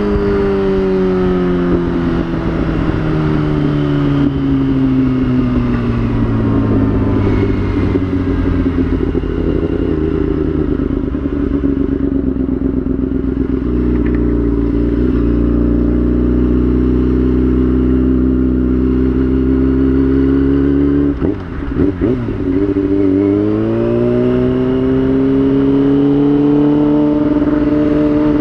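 2003 Yamaha YZF-R6's 600 cc inline-four engine under way: the revs fall steadily for about ten seconds, hold at a steady note, break off briefly about 21 seconds in, then climb again and hold.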